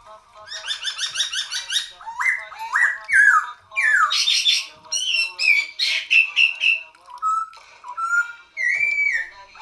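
Poksay Hongkong songbird singing a loud, varied song: fast repeated trilled notes, rising and falling whistled slurs, and phrases in quick succession.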